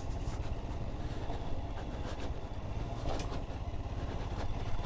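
Motorcycle engine running steadily under way, a continuous low rumble with road noise.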